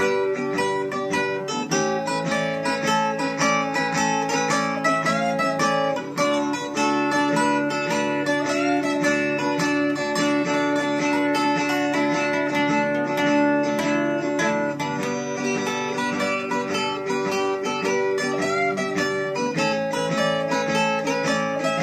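Acoustic guitar played without singing: a stream of quick picked notes over chords that change every few seconds.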